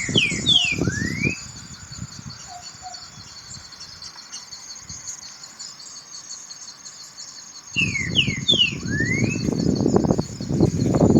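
A songbird singing a short phrase of three quick falling whistles and one rising whistle, at the start and again about eight seconds in, over a steady high chirring of insects. A loud low rumble comes in with the first phrase and again from about eight seconds in.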